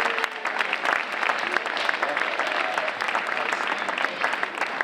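Audience of schoolchildren clapping, dense applause with many quick claps that fades out near the end.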